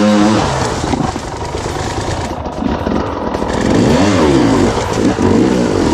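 Off-road dirt bike engine revving hard and dropping back, with two strong surges, one at the start and another about four seconds in.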